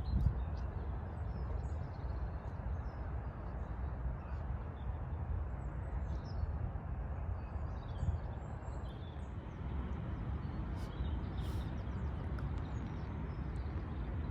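Open-air field ambience: a steady low rumble with scattered faint bird chirps.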